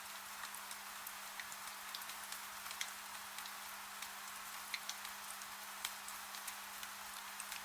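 Steady rain with many scattered sharp drop ticks, over a faint low steady hum.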